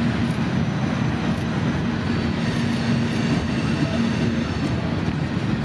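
Norfolk Southern freight train rolling past, a steady rumble of wheels on rail with a low hum coming and going.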